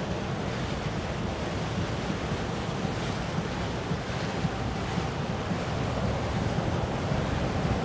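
Steady wind buffeting the microphone over the wash of waves and open water.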